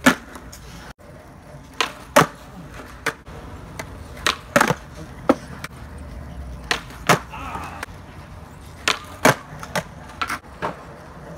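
Skateboard nollies on concrete, done one after another: each is a sharp snap of the nose popping off the ground, then the clack of the board landing a fraction of a second later. About four such pop-and-land pairs are heard.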